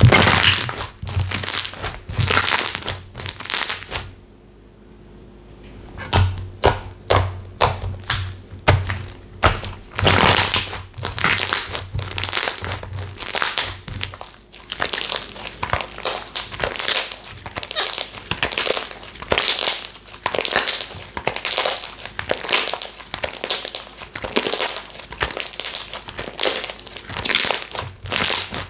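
Hands kneading and squeezing slime, giving a quick, uneven run of wet crackles and pops, with a short pause about four seconds in.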